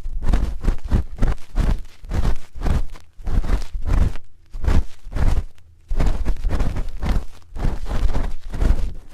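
Close-miked ASMR ear-cleaning sounds: a spoon scraping and rubbing against a microphone's ear in quick, irregular strokes. There are short pauses about three seconds in and again around five and a half seconds.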